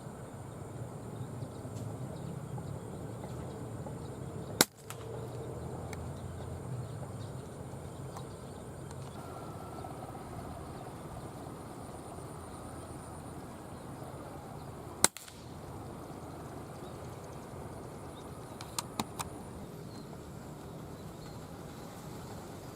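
Air rifle firing twice, two sharp cracks about ten seconds apart, with a few faint clicks later. Behind them is steady outdoor background noise and faint bird calls.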